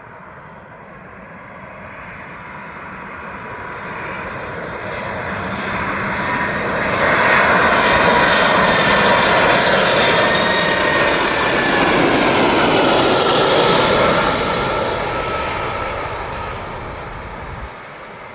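A large fixed-wing aircraft passes close by. Its engine noise builds to a loud peak about halfway through, then slowly fades. High whining tones ride over the rumble and drop slightly in pitch as it goes past.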